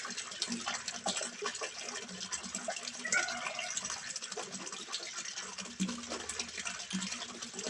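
Water splashing and trickling steadily into a small fish pond, a continuous patter of tiny splashes. A brief faint tonal sound comes in about three seconds in.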